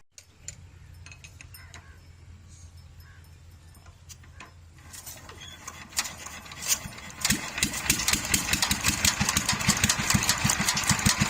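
Old diesel engine starting: a low hum at first, then, about five seconds in, firing strokes come in and grow louder and quicker as the engine catches and picks up speed.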